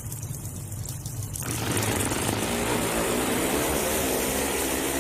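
Pro Stock Motorcycle engines running low on the starting line, then about a second and a half in they rise sharply to full power as the bikes launch, the loud engine note climbing and wavering in pitch as they pull away down the drag strip.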